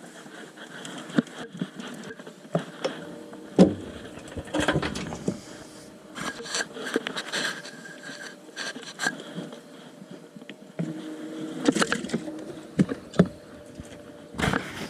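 Scattered knocks, clicks and scrapes from fishing gear and rod handling on a bass boat deck, over a faint steady hum.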